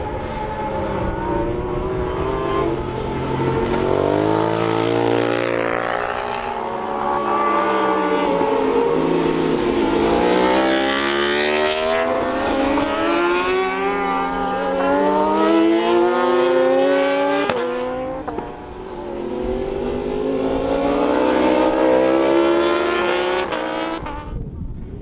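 Several racing motorcycles passing at speed, their engines rising and falling in pitch as they accelerate and change gear, overlapping one another. The sound cuts off sharply near the end.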